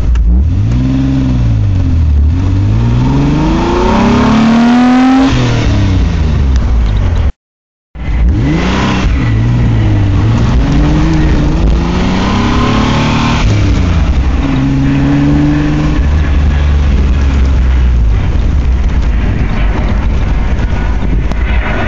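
Car engine of a Ferrari F355 replica spider pulling through the gears of its Muncie four-speed manual, heard from the cabin: the pitch climbs, then drops back at each shift, several times over. It settles to a steadier note in the second half, and the sound cuts out for about half a second seven seconds in.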